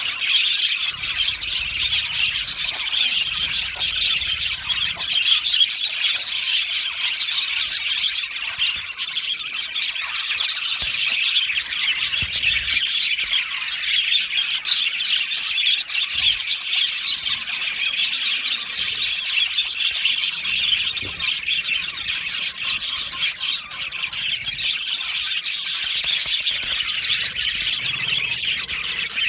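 A group of budgerigars chirping and singing without a break, many short calls overlapping into a dense chatter.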